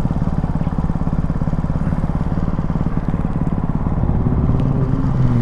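Ducati Hypermotard 698 Mono's single-cylinder engine running under way, a steady rapid train of firing pulses, its pitch shifting a little about four seconds in.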